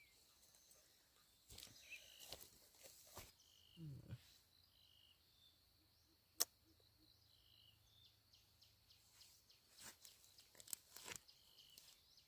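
Quiet outdoor ambience: short high chirps recurring every second or two over a faint steady high whine, with scattered rustles and light clicks and one sharp tap about six and a half seconds in.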